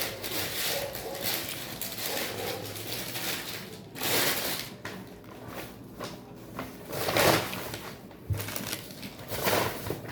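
Eating noises: chewing and the handling of food and cutlery at a meal of fried pork, rice and beans, with louder crunchy bursts about four, seven and nine and a half seconds in.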